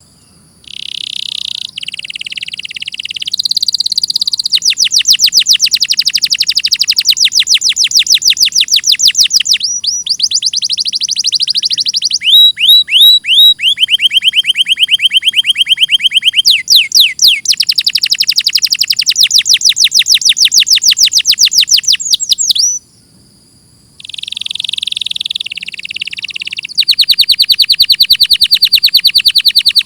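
Domestic canary singing a long, loud song of rapid trills and rolls, switching between phrases at different pitches every few seconds, with a pause of about a second two-thirds of the way through before the song starts again.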